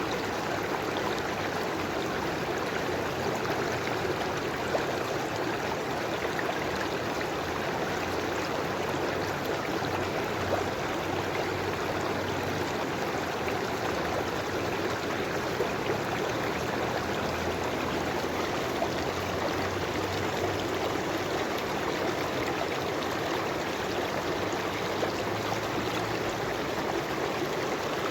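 A river or stream flowing steadily over rocks, a continuous rushing and burbling of water with small splashes throughout.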